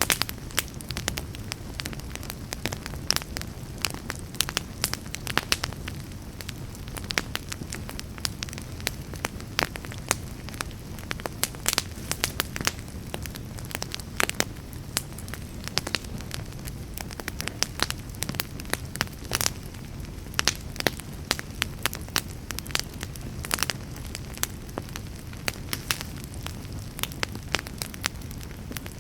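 Wood fire burning in a fireplace: a steady low flame rumble with frequent sharp, irregular crackles and pops.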